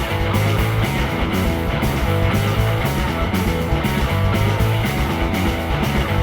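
Live rock band playing an instrumental passage with electric guitar, bass and drums and no singing, a steady beat running throughout.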